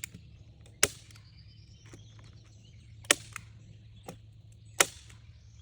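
Heavy-duty manual staple gun snapping staples into wood: three loud sharp shots spaced about two seconds apart, with a few fainter clicks between them.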